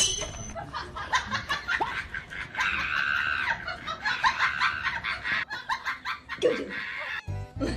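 A person laughing in short, choppy bursts.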